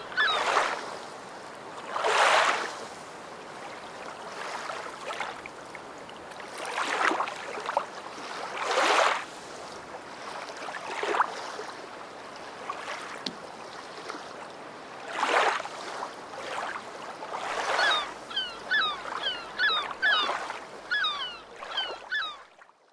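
Waves washing in on the shore, each a rush of water that swells and fades every few seconds over a steady background wash, with birds calling in quick, repeated chirps around the start and again near the end.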